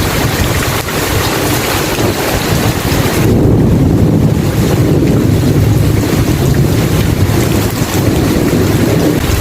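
Steady heavy rain hissing. About three seconds in, the hiss thins and a long, low rumble of thunder rolls through.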